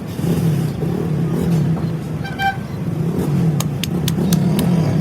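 A motor vehicle engine running steadily, with a brief high tone about two and a half seconds in and several sharp clicks past the middle.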